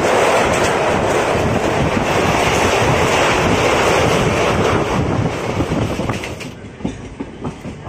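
Passenger train's wheels running over a steel truss bridge: a loud, steady rumble. About five seconds in it dies down as the train comes off the bridge, leaving a quieter clatter of wheels over rail joints.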